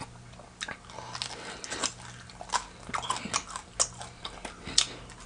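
A person chewing and biting food close to the microphone, heard as many short, irregular clicks and smacks of the mouth.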